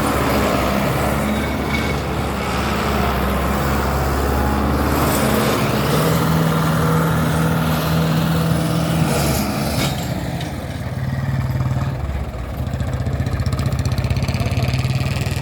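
Diesel tractor engine running, its pitch rising and falling a few times as the engine speed changes.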